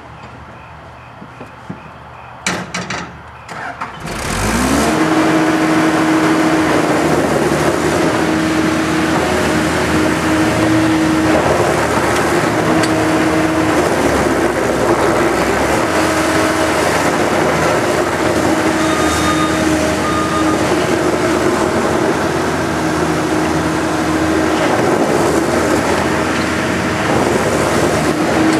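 Case 90XT skid steer's Cummins diesel engine: a few clicks, then about four seconds in it rises quickly in pitch and loudness. After that it runs loud and steady at high speed.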